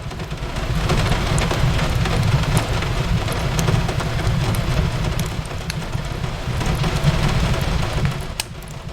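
Steady rain on a window over a deep low rumble, with the sharp crackles and pops of a wood fire scattered through it. The level dips briefly near the end.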